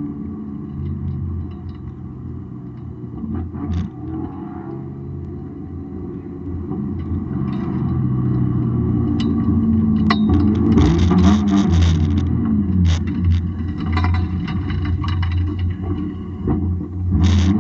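Straight-six engine of a BMW E36 328i hillclimb car heard from inside the cabin. It runs at lower revs for the first several seconds, then from about ten seconds in revs hard, its pitch rising and falling through gear changes.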